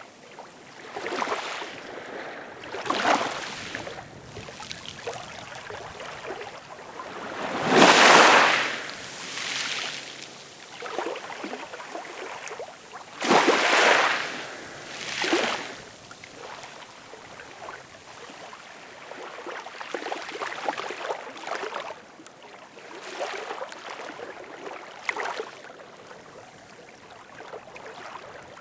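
Ocean waves washing in, a run of small surges every second or two with two larger waves breaking about a third and halfway through.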